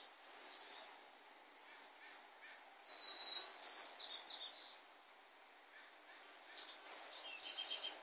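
Small birds calling over steady outdoor background noise: a quick sweeping chirp right at the start, a held whistle and a few sweeping notes about three seconds in, and near the end a sweeping call followed by a rapid run of short chips.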